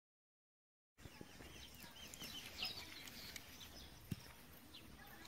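Silence for about a second, then faint outdoor ambience with birds calling in short chirps, and a single light knock about four seconds in.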